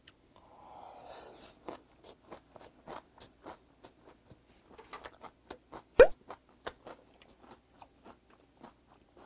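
Close-miked chewing of a mouthful of raw olive flounder (gwangeo) sashimi wrap: a string of wet clicks and smacks, the loudest about six seconds in.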